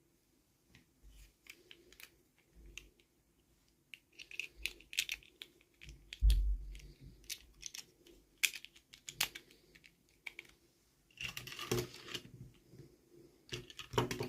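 Hands handling plastic toy packaging and small doll pieces: scattered sharp clicks and taps, a low thump about six seconds in, and a denser crackle a little before the end.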